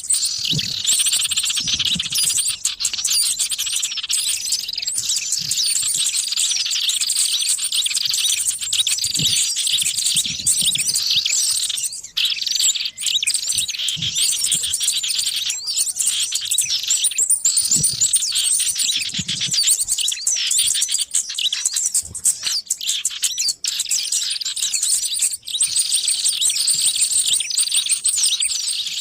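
Dense, continuous chorus of many small songbirds chirping and trilling at once, the noisy overlapping calls of a bird-trapping lure recording.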